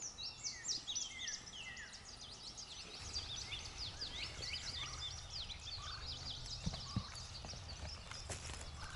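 Songbirds chirping and singing, many short rising and falling calls overlapping in a busy chorus. A low rumble sits underneath from about three seconds in, with a couple of soft knocks near the end.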